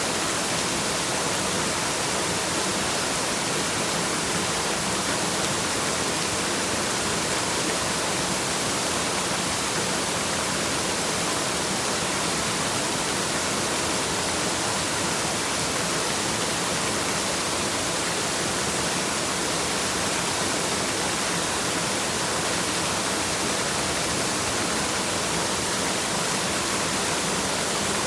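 Waterfall: a steady, unchanging rush of falling water, heard mostly as an even high hiss.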